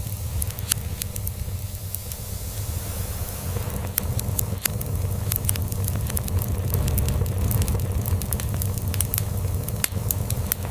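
Log fire crackling, with frequent sharp pops and snaps, over a steady low rumble of a cat purring.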